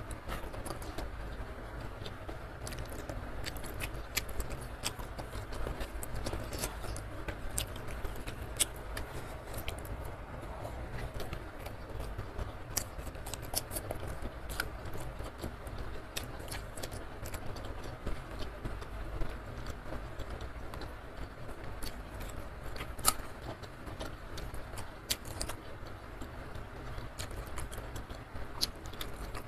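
Close-miked eating: chewing and wet mouth sounds, with many small sharp clicks and smacks scattered throughout. A steady low hum runs underneath.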